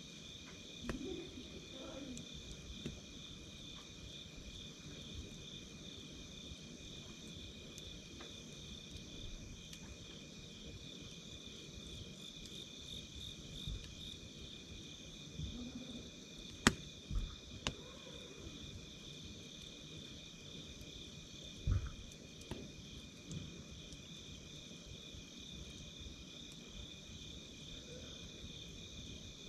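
Night insects trilling steadily in two pitches, one a fast pulsing trill. A campfire crackles and pops now and then, with the sharpest pop just past halfway.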